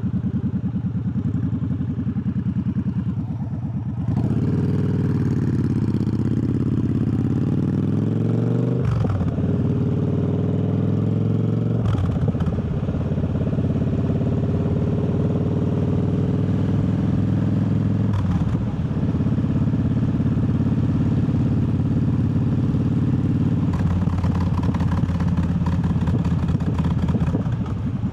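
Triumph Bobber's parallel-twin engine on the move. It accelerates with a rising pitch a few seconds in, shifts up twice in quick succession, then settles to a steady cruise.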